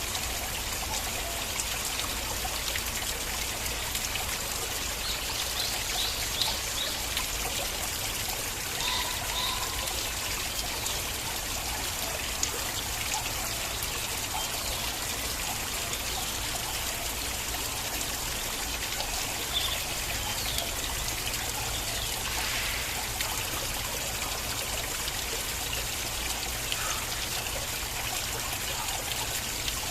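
A small stream of water flowing and trickling steadily, with small gurgles breaking through now and then.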